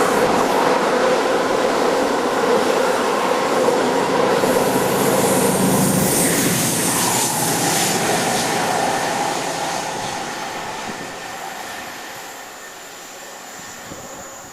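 Diesel train running past with steady whining tones, then fading away over the last few seconds as it moves off.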